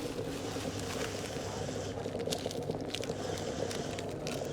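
Electric kettle heating water, a steady hiss of water coming toward the boil, with small ticks and crackles from about two seconds in.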